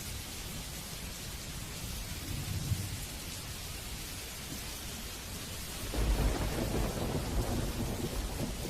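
Steady heavy rain with rolling thunder: a low rumble about two seconds in, then a louder crackling thunder roll starting about six seconds in and running on.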